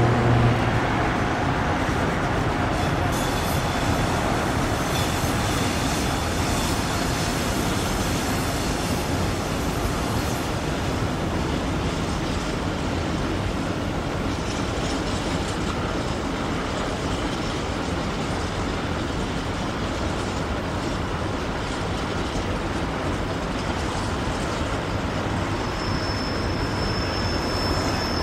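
Freight train of tank and goods wagons rolling steadily across an elevated rail bridge: a continuous rumble of wheels on rail. A steady high-pitched wheel squeal sets in near the end.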